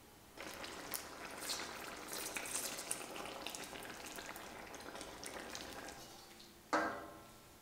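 Beef, pumpkin and carrot curry sizzling and bubbling in a stainless steel wok as a wooden spatula stirs it, with small clicks and scrapes throughout. Near the end comes a single sharp knock that rings briefly.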